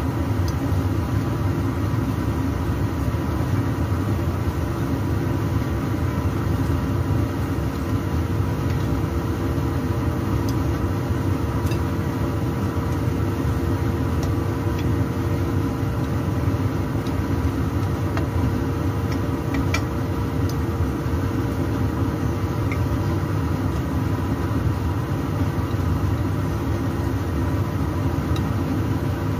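Glutinous rice cakes frying in a pan of oil under a steady mechanical hum that carries a few even tones, with a few light clicks of chopsticks against the pan.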